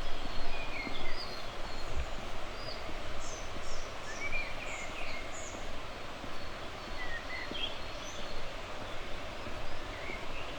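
Several birds giving short chirps and whistles over a steady rush of flowing river water.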